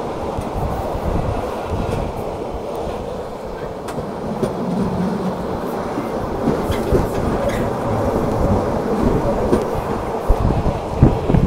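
Rhaetian Railway Bernina line train running, heard from an open-air carriage: a steady rumble of wheels on rails with scattered clicks, and a few louder knocks near the end.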